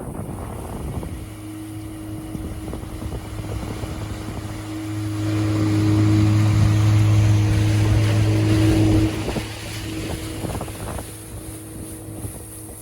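Outboard motor running steadily with wind on the microphone; it grows louder about five seconds in, then is throttled back sharply about nine seconds in.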